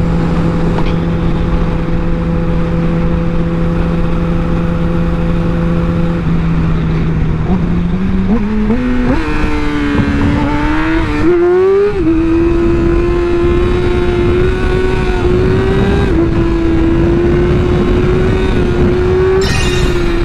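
Yamaha R1 sport bike's inline-four engine cruising at a steady pitch under heavy wind noise, then about seven seconds in accelerating, the pitch rising in steps through gear changes before settling to a higher steady cruise.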